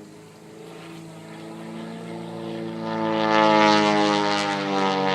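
Propeller aircraft engine growing steadily louder as the plane approaches and passes overhead, its pitch sinking slightly as it comes.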